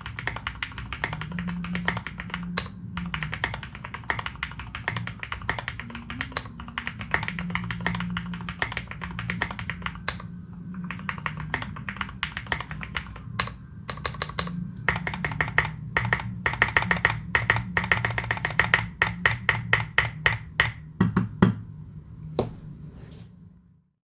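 Typing on a KBD75v2 custom mechanical keyboard with modded Cherry Retooled Black linear switches: a continuous run of fast keystrokes that gets busier and louder a little past halfway, then a few slower, deeper strokes before the typing stops near the end.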